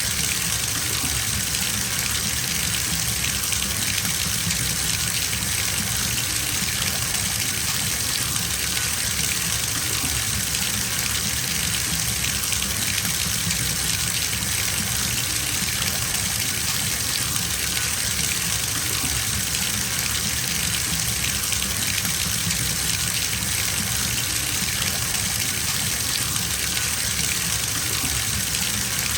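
Water running from a bathtub tap into the filling tub, a steady even gush of splashing water.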